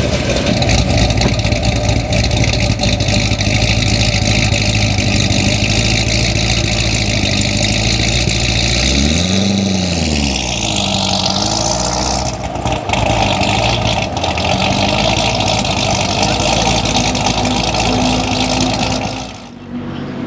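Supercharged 6.2-litre V8 of a Corvette ZR1, tuned to 800 bhp, idling loudly through its exhaust. About halfway through the revs rise and fall once, then it settles back to idle.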